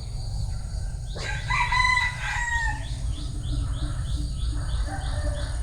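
A bantam rooster crows once, about a second in, in a single call of roughly a second and a half that falls slightly at the end. A fast run of short high chirps follows.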